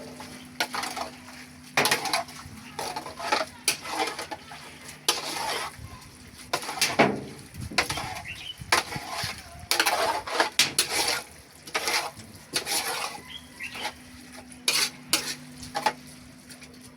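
A spoon scraping and clinking against a cooking pot in irregular strokes as spaghetti in palm oil is stirred, over a low steady hum.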